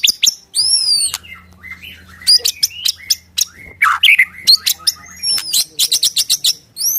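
White-rumped shama (murai batu) singing loudly: clear whistled notes that arc up and fall away, then a fast run of short, sharp, varied notes, quickest near the end.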